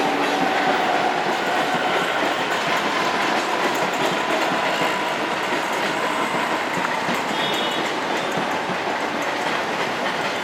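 Train wheels clattering steadily over the rails, with a brief high tone about seven seconds in.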